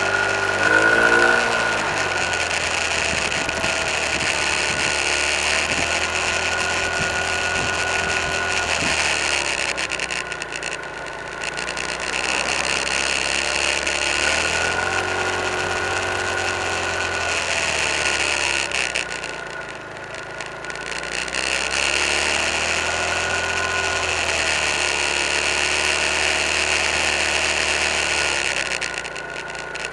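Car engine heard from inside the cabin while driving. It revs up and falls back several times as the car accelerates, shifts gear and slows, with a steady high-pitched whine running under it.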